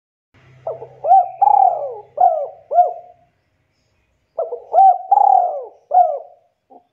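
Spotted dove cooing: two phrases of about four deep coos each, the second beginning about four and a half seconds in, with one short note near the end.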